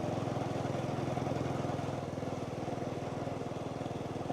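Small motorbike engine running steadily while riding, easing off slightly about two seconds in.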